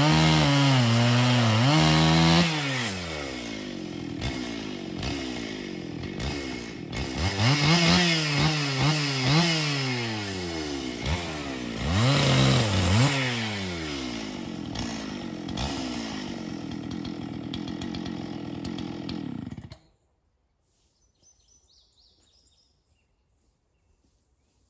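Gas chainsaw cutting a notch into a dead ash tree under heavy load, then running lighter and revved up several times before it is shut off abruptly about twenty seconds in.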